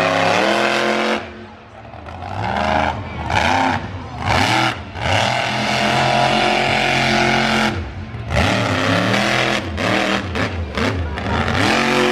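Monster truck engine revving hard in bursts, its pitch climbing and falling as the throttle is pinned and lifted, with short drops about a second in and near eight seconds.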